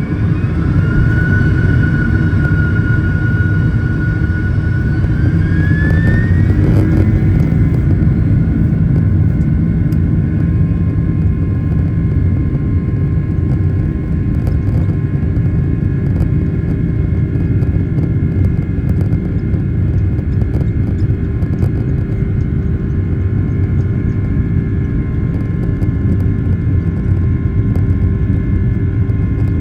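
Airliner jet engines heard from inside the cabin, spooling up to takeoff power: a whine rises in pitch over the first several seconds, then holds steady over a loud, continuous rumble.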